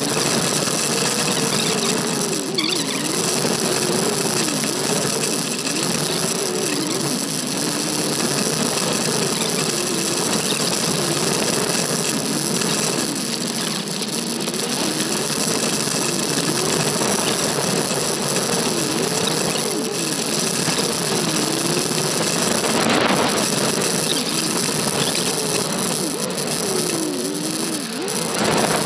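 Subaru Forester's turbocharged flat-four engine driving slowly over a rough dirt trail, heard from the roof, its pitch rising and falling about once a second as the throttle is worked. A steady hiss of wind and road noise runs under it.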